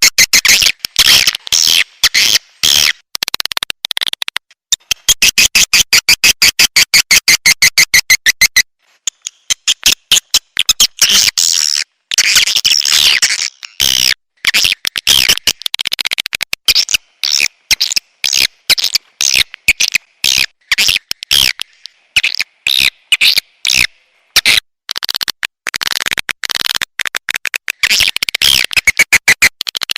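Recorded edible-nest swiftlet calls used as a lure to draw birds into a swiftlet house: dense, high chirps and trills, with a fast, even run of clicks lasting about four seconds, starting about four and a half seconds in.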